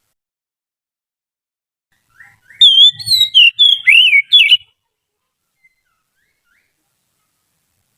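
Oriental magpie-robin singing one loud phrase of quick, varied whistled notes that rise and fall, starting about two seconds in and lasting about two and a half seconds.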